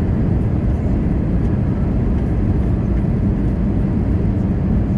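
Steady cabin noise inside an Airbus A320-214 with CFM56 engines: an even, low rumble of engine and airflow that does not change.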